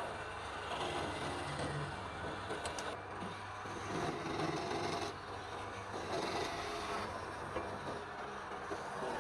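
Wood lathe running with a steady motor hum while a turning tool cuts palm wood, the scraping swelling and easing as the tool moves.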